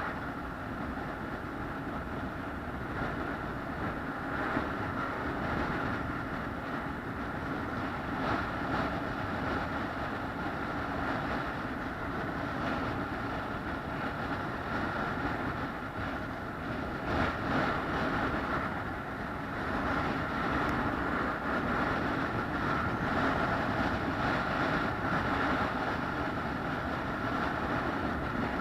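A vehicle running steadily on a journey, a continuous rumble with a faint steady whine, rising a little in level in the last third.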